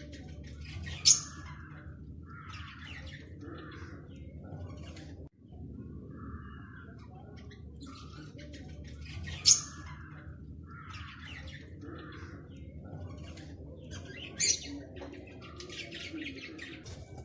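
Aviary finches calling: a steady stream of short chirps and squawks, with three louder, sharp high calls standing out, over a low steady hum.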